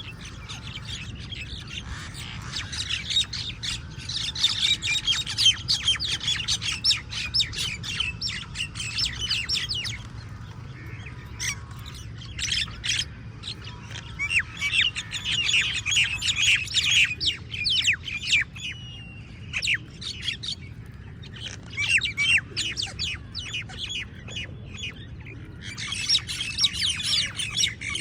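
A flock of crows squawking and cawing in a dense, harsh clamour. It comes in several long spells broken by short lulls.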